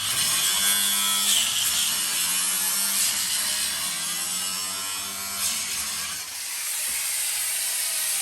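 A power tool running continuously as it cuts through the coach's bodywork to remove the back door.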